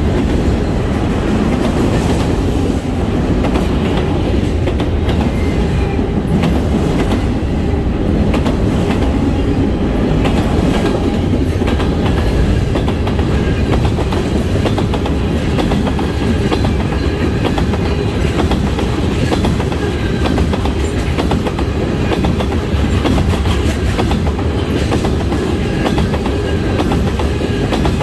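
Norfolk Southern manifest freight train's cars (tank cars, autoracks and boxcars) rolling past close by: a steady rumble of steel wheels on rail with a constant run of clicks from the wheels passing over the rail joints.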